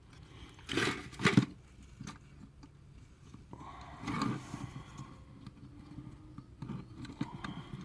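Small clicks, taps and rustles from a plastic model railway coach being handled while its wheels are turned back into place. The loudest come about a second in, with a few more near the middle and near the end.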